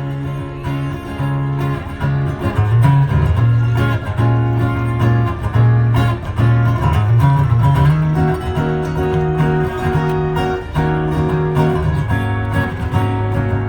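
Live band music: an instrumental passage without singing, with steady held notes over a moving low line.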